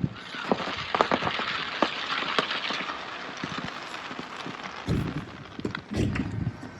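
Fireworks crackling: a dense patter of small pops and snaps that fades over the first few seconds. It is followed by two dull bangs about a second apart near the end.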